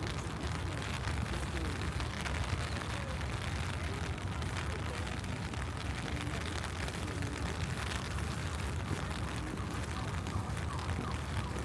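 Steady city street ambience: a low traffic rumble under an even hiss, with faint voices now and then.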